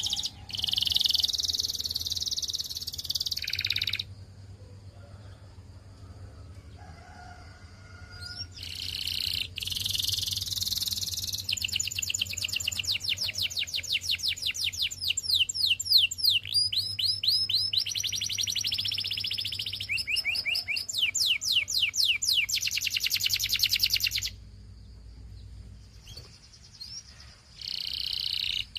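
Canary singing: fast trills and rolls of rapidly repeated high notes in long phrases, broken by pauses of a few seconds, about 4 s in and again near the end. A faint steady low hum sits underneath.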